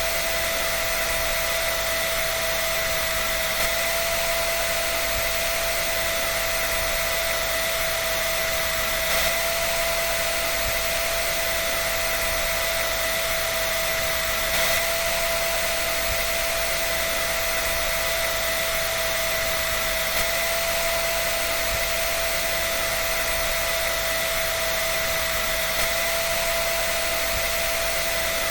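Electric dryer running steadily: a constant whine over an even hiss, unchanging throughout.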